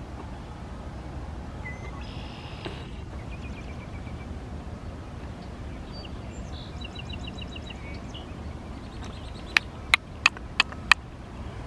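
Outdoor ambience with a steady low rumble, with small birds calling in short trills of repeated notes. Near the end come five sharp clicks in quick succession, the loudest sounds here.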